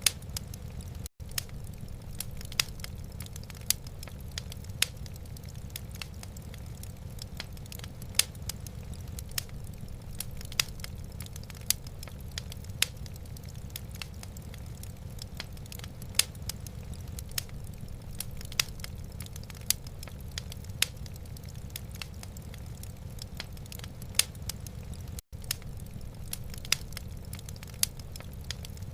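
Wood fire crackling in a fireplace: irregular sharp pops and snaps over a steady low rumble. The sound drops out for an instant twice, about a second in and near the end.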